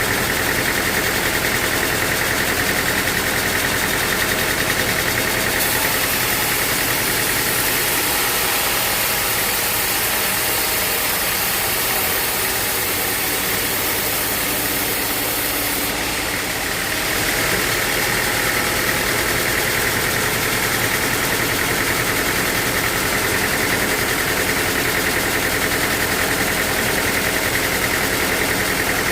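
Sawmill machinery running steadily: an engine-driven saw at work. For about ten seconds in the middle the sound turns hissier and brighter, then settles back.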